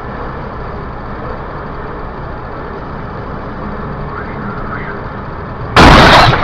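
Steady engine and road noise heard inside a car's cabin, then near the end a sudden, very loud crash lasting about half a second: a vehicle collision.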